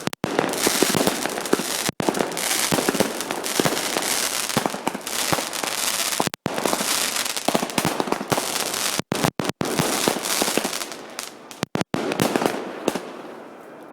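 Fireworks display: a dense crackle of many small rapid bangs over a steady hiss, fading away near the end. The sound drops out briefly several times.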